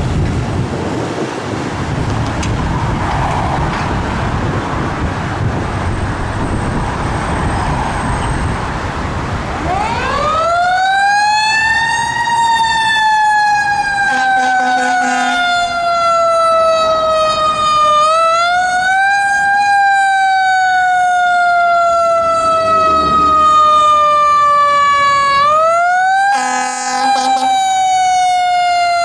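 Fire engine responding: heavy truck engine and road noise, then its mechanical siren winding up about ten seconds in, coasting down slowly and winding up again twice. There are two short horn blasts along with it.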